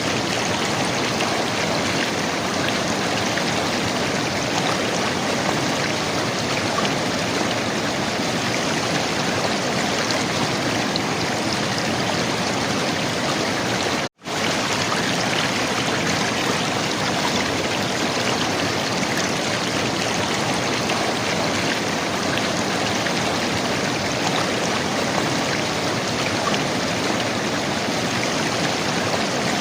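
River water flowing and gurgling steadily. The sound cuts out for an instant about halfway through, then resumes unchanged.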